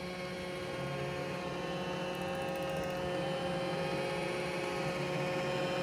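Roomba j7+ robot vacuum running, its motor and brushes making a steady hum with a few constant whining tones, slightly louder from about a second in.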